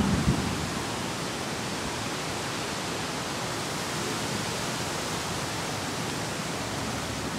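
Steady hiss of rain falling during a thunderstorm, with a brief low thump right at the start.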